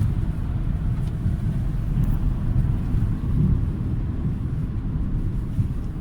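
A BMW X4 30d's 3.0-litre straight-six diesel and road noise as the car drives, a steady low rumble.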